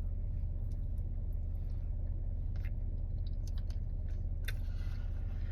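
Steady low hum of a car's idling engine, heard from inside the cabin, with a few faint soft clicks over it.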